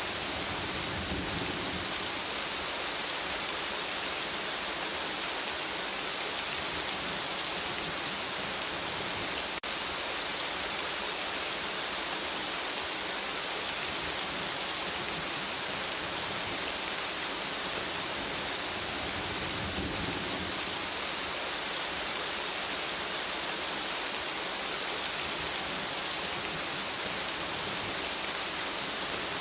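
Steady rain falling on a forest canopy, an even hiss of many drops, with low rumbles swelling about a second in and again about two-thirds through.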